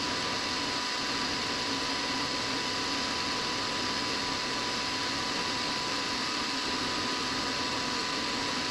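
Precision Matthews PM-25MV benchtop milling machine running steadily, spinning a 1/4-inch 90-degree chamfer mill to chamfer an aluminum base plate, with a steady whine over the motor noise.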